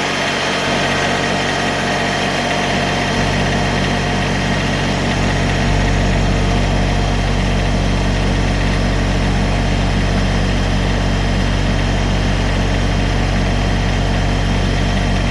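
An engine running steadily at a constant speed, heard close up, its low rumble growing heavier over the first few seconds.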